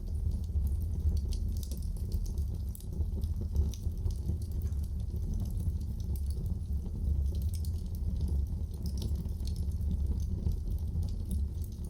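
Wood fire in a fireplace crackling, many small irregular pops over a steady low rumble of the flames.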